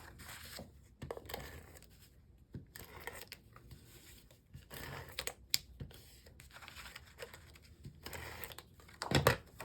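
Paper and cardstock being handled on a craft table: scattered rustling and light taps, with a louder knock about nine seconds in.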